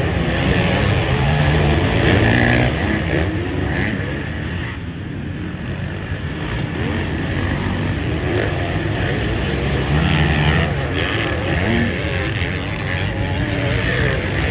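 Motocross dirt bike engines running hard, their pitch repeatedly rising and falling as the throttle is worked, over a constant noisy rush.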